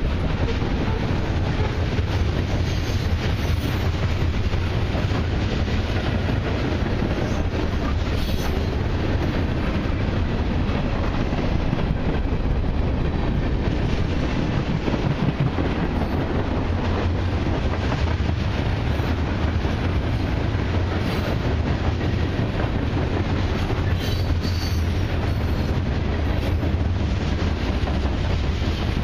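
Freight train cars (covered hoppers, tank cars and boxcars) rolling past close by: a steady rumble of steel wheels on rail, with occasional sharp clicks.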